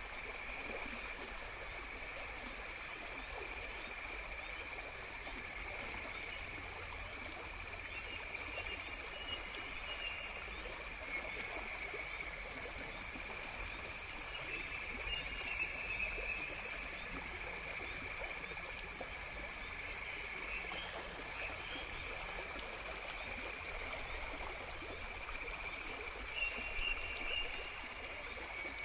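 Outdoor nature ambience: a steady wash of running water with insects chirping. A faint high chirp repeats evenly throughout, and a rapid pulsing trill rises up twice, once in the middle for about three seconds and briefly near the end.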